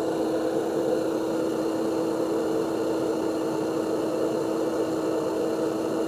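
GE refrigerator running: a steady motor hum with an even fan whir.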